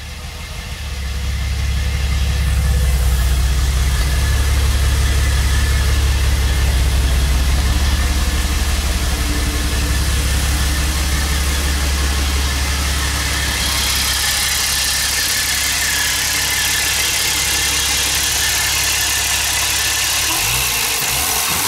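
1982 BMW 520's engine running, rising in the first two seconds to a loud, steady deep drone. About two-thirds of the way through the deep tone weakens and a hissier sound comes up over it.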